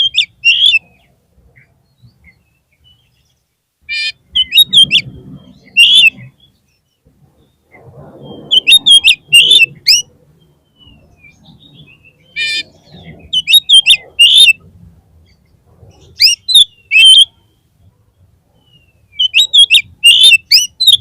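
Oriental magpie-robin (kacer) calling in short phrases of high whistled notes mixed with harsh rasps, about six phrases a few seconds apart.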